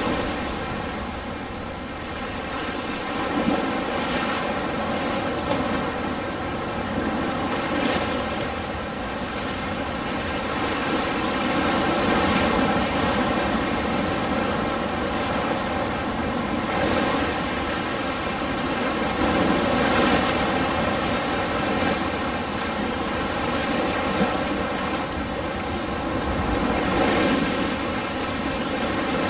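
Ocean waves breaking and washing, swelling and easing in slow surges every few seconds, with a steady hum of many even tones underneath.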